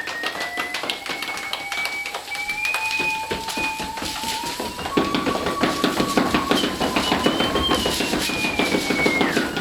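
Live soundscape performance: a held, high pitched tone slides slowly and steps between notes over a patter of quick taps and knocks. About five seconds in, the tapping grows louder and denser into a busy rhythm.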